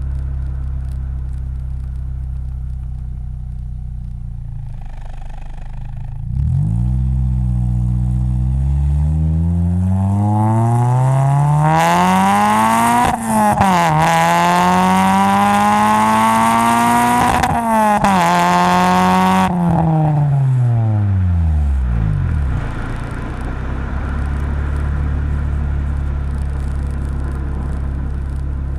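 Honda Civic Si EP3's 2.0-litre four-cylinder through a Magnaflow cat-back exhaust with a test pipe in place of the catalytic converter. It runs steadily at low revs, then accelerates hard with the pitch rising, two sudden drops at upshifts, then falls away as the throttle closes and settles back to a low steady drone.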